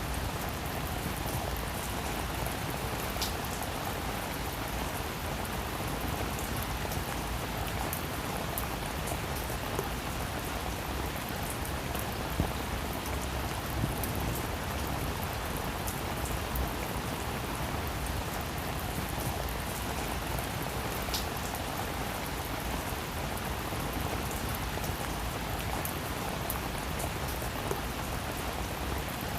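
Heavy rain falling steadily on a hard surface, a dense even hiss of many drops, with a few sharper individual drop hits now and then.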